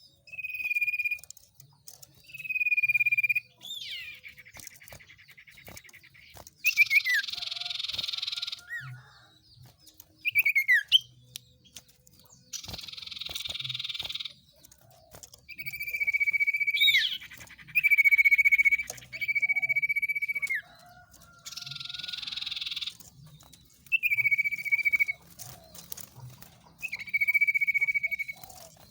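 Bird-lure recording of songbird calls: clear whistled notes, some held steady for a second or more and some sliding down, alternating with harsh buzzy rattling chatters about every couple of seconds.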